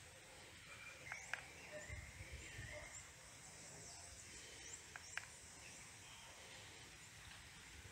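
Faint outdoor ambience with scattered short bird chirps, two pairs of quick clicks about a second in and about five seconds in, and a brief low rumble.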